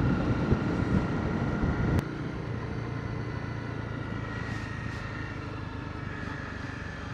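Motorcycle engine running steadily while riding. The sound drops abruptly to a quieter level about two seconds in, then carries on steady.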